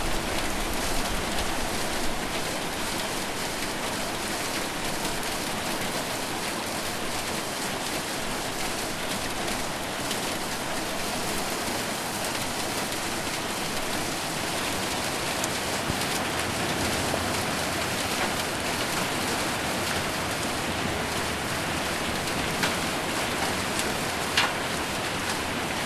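Heavy rain mixed with hail falling on a roof: a steady dense hiss with many small sharp ticks of hailstones striking. A couple of louder single hits come near the end.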